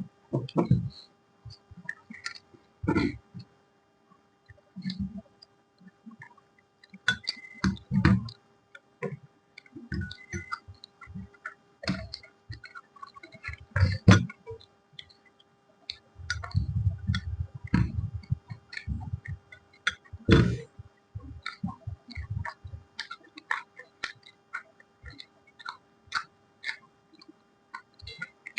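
Close-up eating sounds: irregular wet clicks, smacks and crunches of someone chewing puri and potato curry, with a longer rustle of handling about two-thirds of the way through. A faint steady hum runs underneath.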